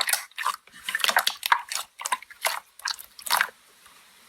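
Sticky slime being squished and pressed, giving quick, irregular wet clicks and pops that stop a little before the end.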